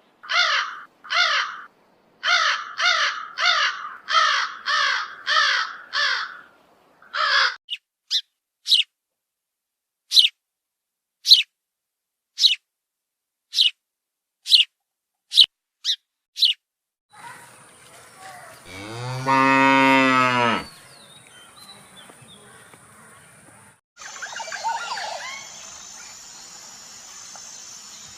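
A run of animal recordings: about eleven harsh, caw-like calls, then short thin high chirps about one a second, then a cow mooing once, long and loud, then a fainter, different animal sound near the end.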